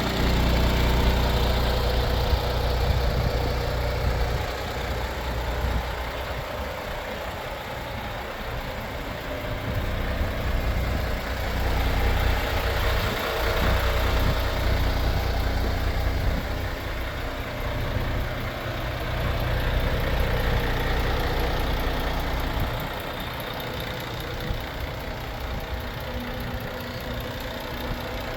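MAN TGX 18.500 truck's 12.4-litre inline-six diesel idling steadily, its low hum growing louder and softer over time, loudest in the first few seconds and quieter near the end.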